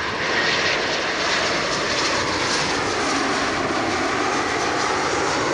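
Jet airliner's engines passing close by: a loud, steady rush of engine noise.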